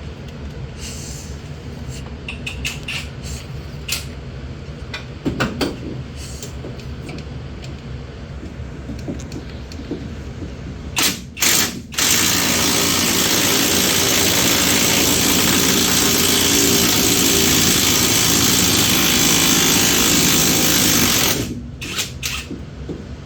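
A power tool working on the engine mount bolts: two short bursts, then a steady run of about nine seconds that cuts off sharply. Before it come scattered light clicks and knocks of tools and parts being handled.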